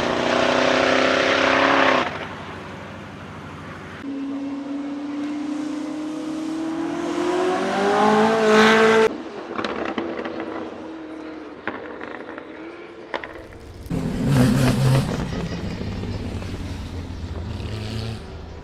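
Koenigsegg Jesko's twin-turbo V8 running hard in several short clips cut together. In the longest, a little after the start, the engine note climbs steadily in pitch under acceleration until it cuts off. Another loud burst of engine comes shortly before the end.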